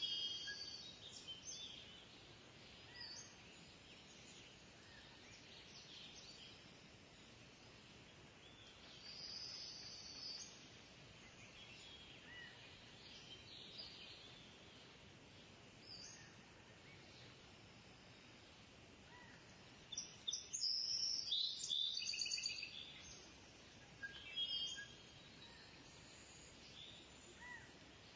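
Kingfisher calling: short, high calls in scattered bursts over a steady background hiss, with the loudest run of rapid calls about twenty seconds in and a shorter burst soon after.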